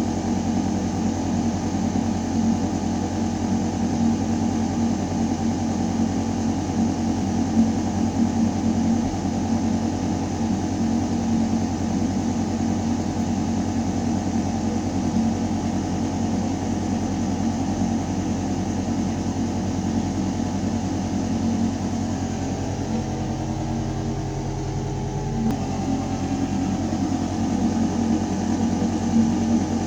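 Building ventilation system running: a steady mechanical hum of air moving through metal ductwork, with a few constant tones over the rush of air. About twenty-two seconds in, the tones shift for a few seconds, then switch back abruptly.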